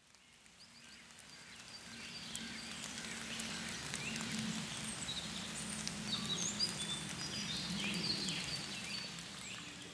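Forest birdsong, many small birds chirping and trilling at once, fading in over the first couple of seconds, with a low drone underneath.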